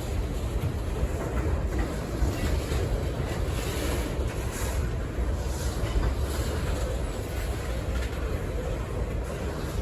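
Freight train cars rolling past: a steady rumble of steel wheels on the rails with faint scattered clicks.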